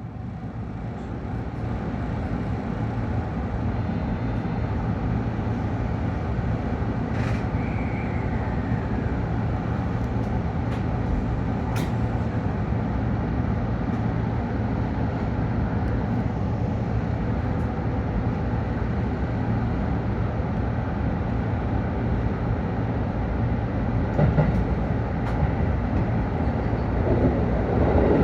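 JR 313 series electric multiple unit pulling out and running: a steady rumble that builds over the first few seconds. A few sharp clicks and a short falling whine about eight seconds in ride over it.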